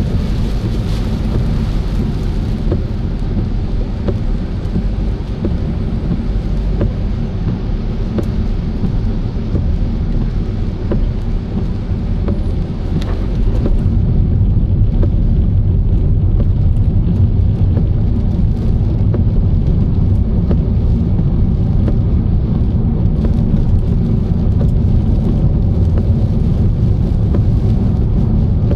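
Steady low rumble of a car driving in the rain: tyre and road noise on a wet road, with scattered faint ticks of raindrops. It grows a little louder about halfway through.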